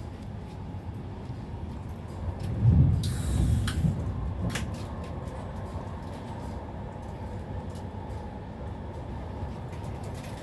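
Steady running rumble of an InterCity passenger train heard from inside the coach, wheels on the track. About three seconds in, a short louder surge of rumble comes with a brief hiss, followed by a couple of sharp clicks.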